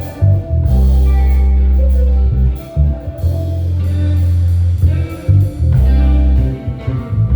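Live band playing an instrumental passage: long held bass guitar notes, each about a second, under electric guitar, with drums.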